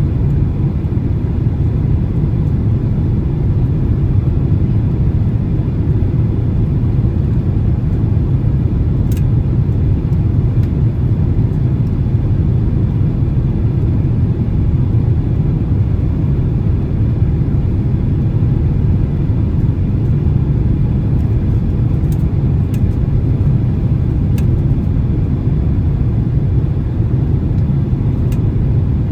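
Steady low cabin roar of a Boeing 767-300 on approach, engine and airflow noise heard from inside the passenger cabin. A few faint ticks sound over it, about a third of the way in and again near the end.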